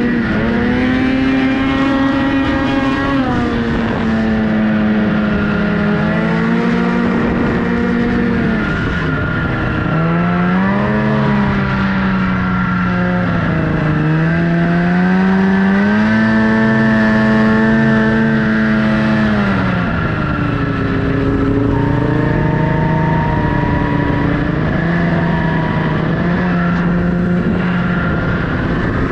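Snowmobile engine running under changing throttle, its pitch holding steady, then dropping around four and nine seconds in, climbing again from about fourteen seconds, and falling back near twenty seconds.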